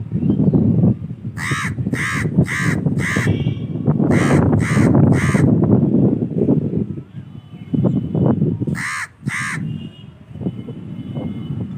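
A crow cawing in three bouts of short, harsh caws: four, then three, then two after a pause of a few seconds. A steady low rumbling noise runs underneath throughout.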